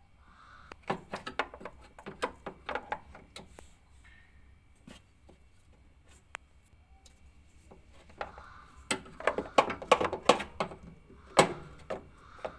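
Quick clicks and knocks of parts being handled during a washing machine suspension damper repair. They come in two bursts, the first about a second in and a louder one from about eight seconds in, with a single heavier knock near the end.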